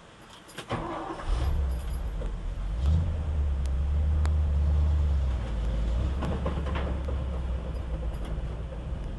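Ford F600 grain truck engine starting about a second in and then running steadily, louder from about three seconds in.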